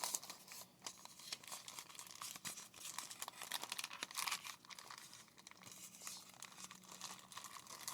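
Packaging being handled and pulled open, with irregular crinkling and rustling.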